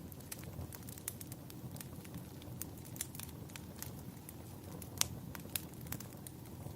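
Wood fire crackling, with irregular sharp pops, the loudest about five seconds in, over a low steady rumble of the burning.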